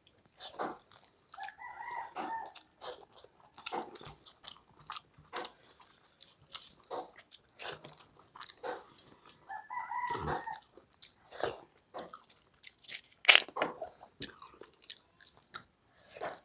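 Close-up eating sounds: wet chewing and lip smacks as rice is eaten by hand, with fingers scraping grains off a steel plate, in a string of short sharp clicks.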